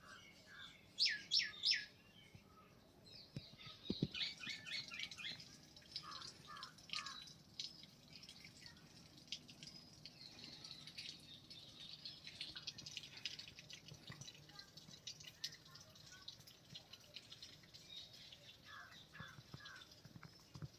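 Birds chirping and calling, with three loud falling calls about a second in, then a dense run of short repeated calls and steady chirping throughout.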